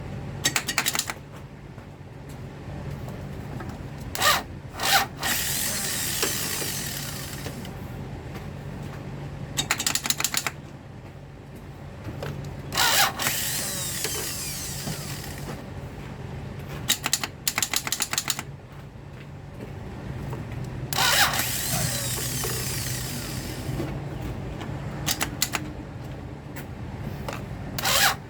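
Repeated attempts to crank a 2002 Toyota Solara with its failing starter: bursts of rapid clicking alternate with stretches of whirring from the starter, and the engine does not catch. A steady low hum runs underneath.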